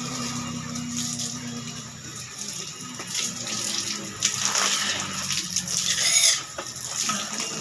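Water spraying from a hose and splashing over a motorcycle being washed, a steady hiss with a louder surge about six seconds in.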